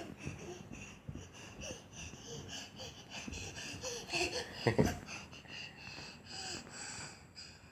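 A young child's soft, breathy babbling and half-sung sounds, with a louder outburst about five seconds in.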